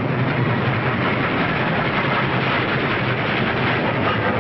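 Moving train running along the track: a steady rushing rumble with a low, even hum underneath.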